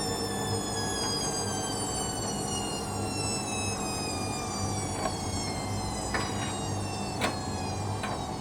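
Hoover Dynamic Next washing machine during its 400 rpm intermediate spin, the motor's whine slowly falling in pitch as the drum slows, over a steady low hum. A few sharp clicks come near the end.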